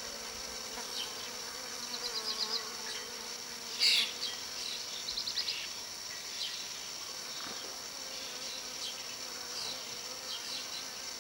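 Insects buzzing over a steady high chorus of chirping insects, broken by short chirps and trills and one sharp, loud call about four seconds in.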